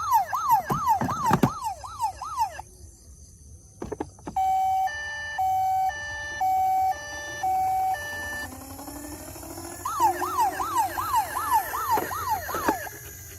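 Electronic siren of a toy emergency vehicle: a fast rising-and-falling yelp for about two and a half seconds, then a two-tone high-low siren with even alternating notes, then the fast yelp again near the end.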